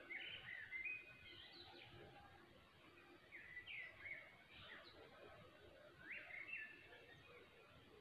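Faint songbird singing: three short phrases of quick chirped notes, a few seconds apart, over a quiet rural background.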